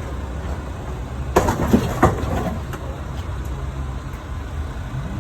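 A heavy engine runs steadily, and about a second and a half in there are a few loud metal clanks and scrapes with some ringing, as the truck cab's sheet metal is worked apart.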